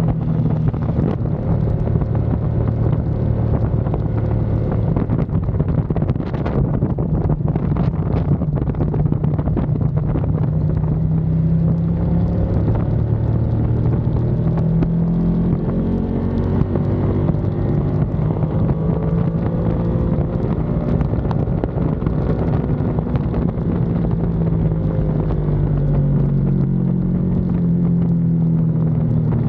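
Ducati Panigale V2's 955 cc V-twin engine running hard on track, its pitch rising and falling again and again as it accelerates and backs off. Wind rushes over the microphone.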